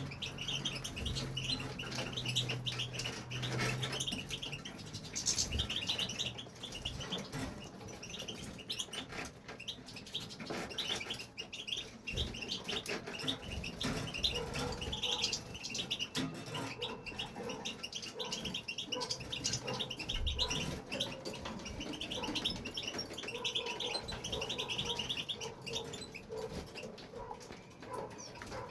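European goldfinch singing a long, unbroken run of quick twittering notes, with a few short low thumps here and there.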